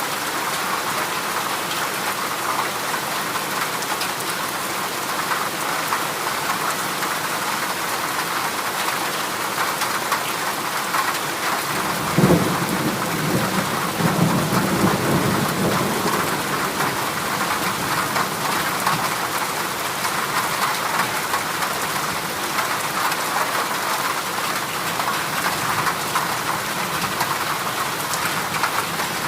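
Heavy rain falling steadily on a corrugated zinc roof. About twelve seconds in, a sudden crack of thunder, followed by a few seconds of low rumbling.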